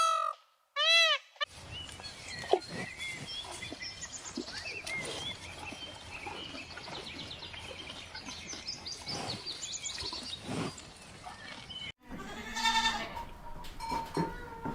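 Two short arching tones at the start, then a long stretch of steady background noise dotted with many short high chirps. After a sudden cut near the end, a goat gives a loud wavering bleat.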